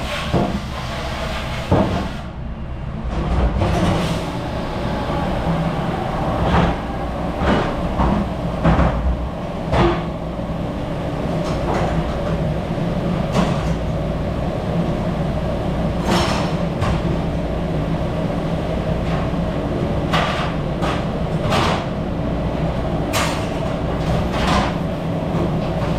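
Dish room at work: a steady machine rumble and hum, with irregular clatters and clanks of dishes and racks being handled.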